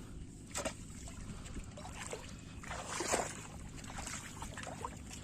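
Water sloshing and trickling around a small boat being moved through the water, with a couple of brief splashes or knocks.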